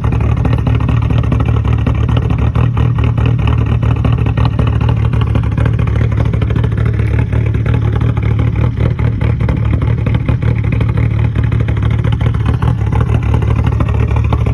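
A 2002 VW 1.9-litre ALH TDI four-cylinder turbodiesel idling steadily with an even diesel clatter, just after a cold start at 2 degrees.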